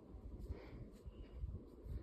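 Hampton Bay Cameron II ceiling fan running: a low, uneven noise of moving air.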